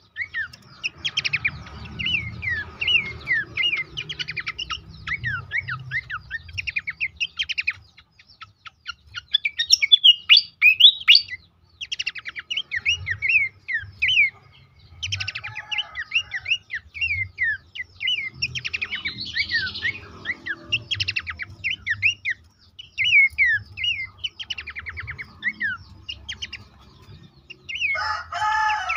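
Pelanduk semak (Horsfield's babbler) song: a busy, continuous stream of quick chirps, short downslurred whistles and rapid rattling trills. A harsher, fuller call comes in near the end.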